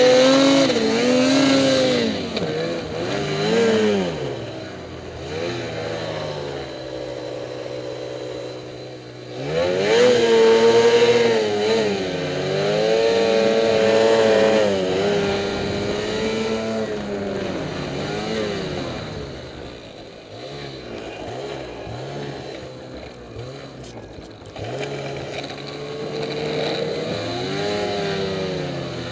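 Ski-Doo MXZ Renegade 800 snowmobile's two-stroke twin engine revving up and down again and again, loud near the start and again from about ten seconds in, settling briefly to a low steady idle around seven to nine seconds.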